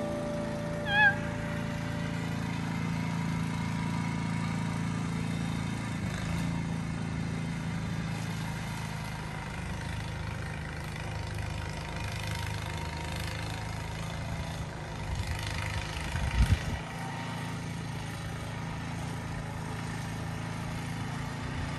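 A car running steadily with a low hum. There is a short warbling chirp about a second in, and a few knocks around sixteen seconds in.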